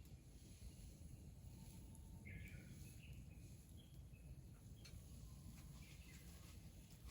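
Faint outdoor ambience over a low steady rumble, with a few short bird calls about two seconds in and again near the end.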